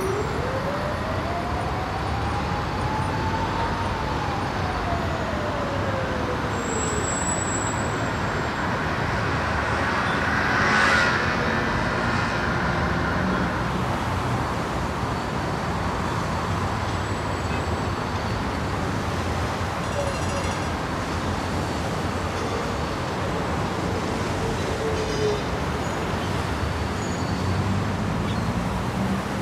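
Ride noise from a Keeway Superlight 200 motorcycle in traffic: steady wind and road rush with the engine underneath. One tone rises and then falls over the first several seconds, and a brief louder swell comes about eleven seconds in.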